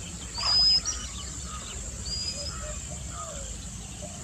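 Wild birds calling: a short whistled note that rises and then holds level, loudest about half a second in and repeated more faintly about two seconds in, with softer chirps and a steady high buzz behind.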